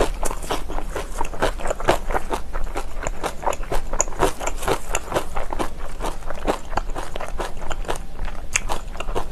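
Close-up chewing and crunching of crisp kimchi: a quick, irregular run of wet crunches, several a second.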